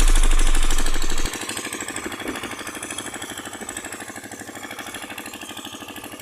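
Loud music with a heavy bass cuts off about a second in, leaving a small single-cylinder diesel engine of a 5 hp water pump set running steadily with an even, rapid beat.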